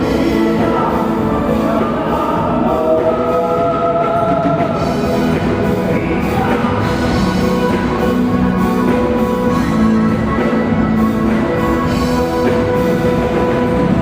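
Live dance-band music with singing.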